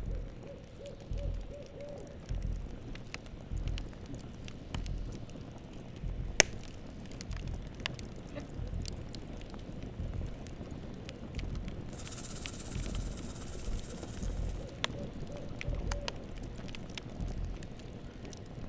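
Campfire crackling, with scattered sharp pops; the loudest pop comes about six seconds in. A high hiss rises for about three seconds near the middle, and twice a short run of quick low notes, like a small owl's trill, sounds under the fire.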